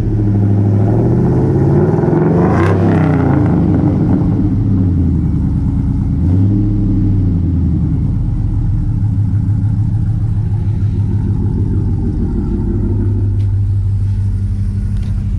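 Chevy 5.3-litre LM7 V8 exhaust through longtube headers, a catless Y-pipe and a Borla XR-1 muffler: the engine is revved up and back down twice, about 2.5 seconds in and again about 6 seconds in, then runs steadily.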